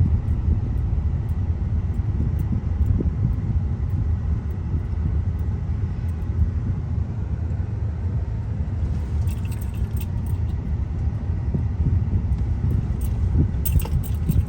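Road noise heard inside a moving car on a bumpy road: a steady low rumble, with light rattling and jangling setting in past the middle and growing near the end.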